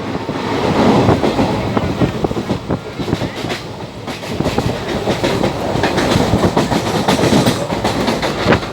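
Moving passenger train heard from on board: a loud, steady rumble of wheels on the rails, with frequent clickety-clack clicks.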